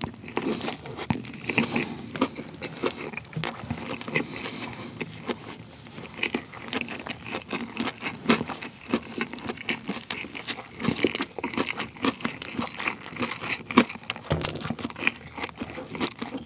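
A person chewing a big mouthful of fried chicken burger close to the microphone: continuous, irregular crunching and clicking mouth sounds.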